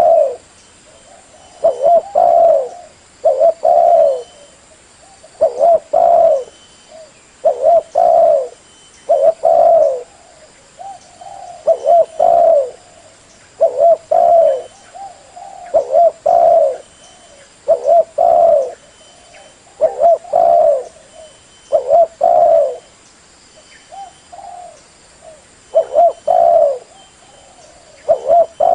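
Spotted dove (tekukur) cooing over and over in short phrases of two or three coos, repeating about every two seconds: a lure call for attracting doves.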